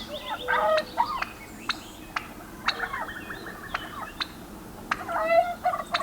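Domestic turkeys gobbling: a warbling gobble about half a second in and another about five seconds in, with short sharp calls in between.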